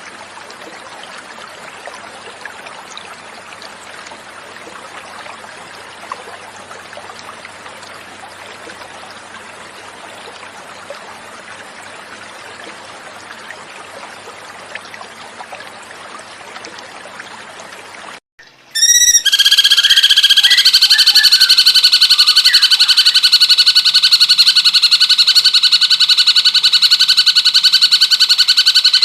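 Flowing water trickling steadily for most of the first two-thirds; then, after a brief gap, the recorded song of a cucak cungkok starts, much louder: a fast, continuous high trill held at a steady pitch until near the end.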